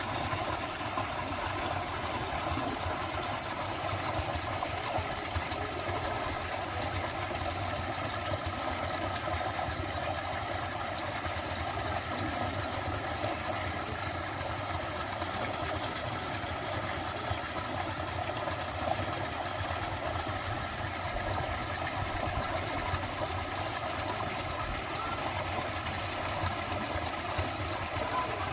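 Dense, steady chorus of many frogs calling at once, their rapid croaks merging into one continuous pulsing drone.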